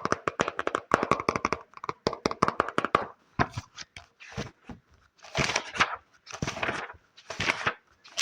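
Fast tapping on a book, many taps a second, for about the first three seconds. It then gives way to slower scratching strokes about a second apart.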